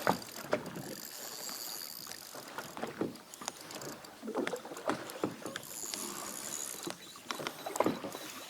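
Scattered sharp knocks and light water noise from a fishing kayak on the sea, with a faint high-pitched hiss that comes and goes.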